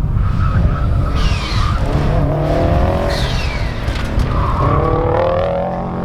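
Subaru STI's engine pulling hard through an autocross course, its pitch climbing and dropping between corners, with the tyres squealing at the limit of grip on asphalt. Two short high whistles fall in pitch, about a second in and about three seconds in.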